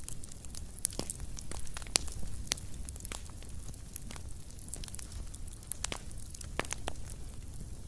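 Wood fire burning in a fireplace, crackling with irregular sharp pops and snaps, several a second, over a low steady rumble of the flames.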